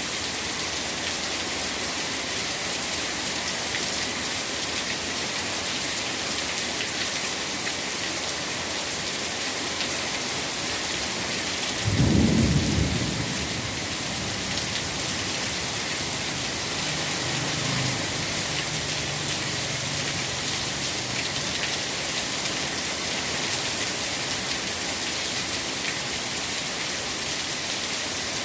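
Steady rain falling, an even hiss throughout. A low rumble of thunder rolls in about twelve seconds in and fades over a couple of seconds, followed by a fainter rumble a few seconds later.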